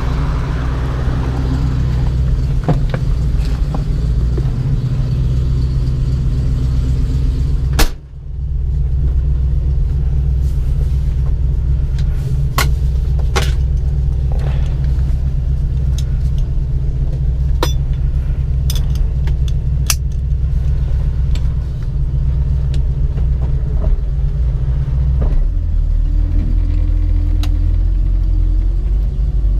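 1967 Ford Mustang's 289 V8 running with a steady low rumble, with scattered sharp clicks and one loud knock about eight seconds in. Near the end the engine note drops lower.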